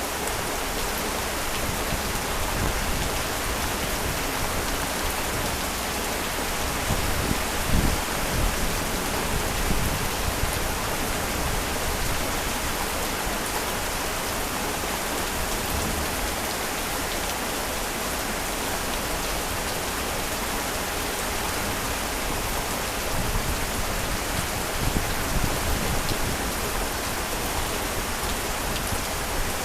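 Heavy rain falling steadily on surfaces. A low rumble swells briefly twice, about eight seconds in and again near twenty-five seconds.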